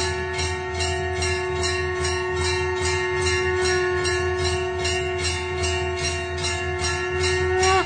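Bells struck rhythmically, about four strokes a second, over a long steady held note that dips in pitch and breaks off near the end.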